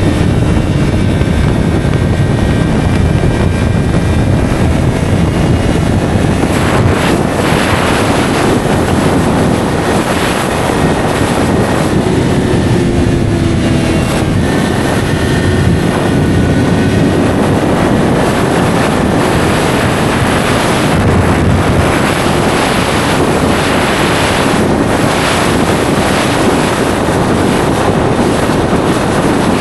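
Yamaha R3's 321 cc parallel-twin engine with an SC-Project slip-on exhaust running steadily under way, mixed with wind rushing over the microphone.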